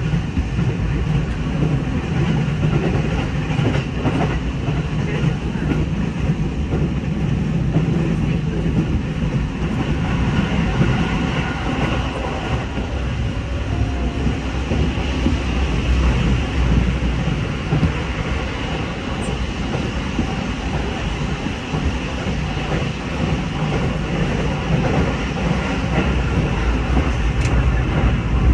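Running noise inside an electric commuter train at speed: a steady rumble of steel wheels on rail, heaviest in the low end.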